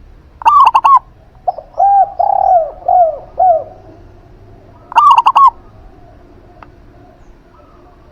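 Zebra dove (perkutut) giving two short bursts of rapid, loud cooing notes, about half a second in and again about five seconds in. Between them a spotted dove (derkuku) sings a softer, lower phrase of about five falling coos.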